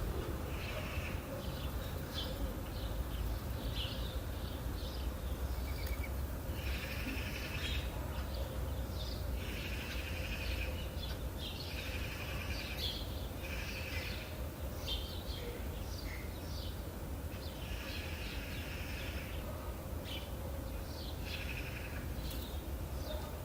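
Small birds singing in short, chattering trilled phrases, one after another, over a steady low rumble.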